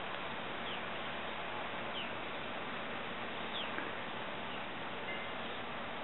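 Steady outdoor hiss with three short, falling bird calls spread over the first few seconds and a brief high chirp near the end.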